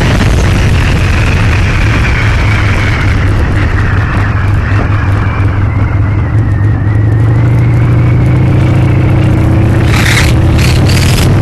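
Harley-Davidson Sportster V-twin engine running loudly under way, with wind rush over the microphone. The engine note rises slowly through the second half as the bike speeds up, and there are a few short crackles of wind on the microphone near the end.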